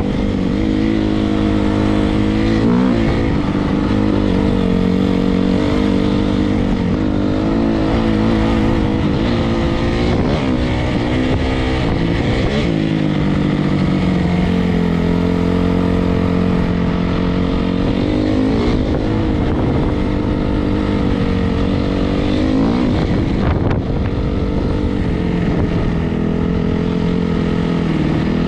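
Single-cylinder four-stroke dirt bike engine running under way, its pitch rising and falling repeatedly with the throttle.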